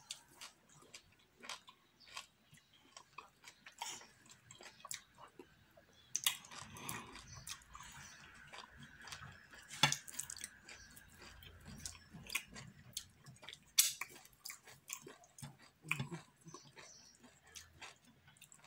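A person chewing fufu with okro and ogbono soup with the mouth open, close to the microphone: a steady run of irregular, quick mouth clicks and smacks.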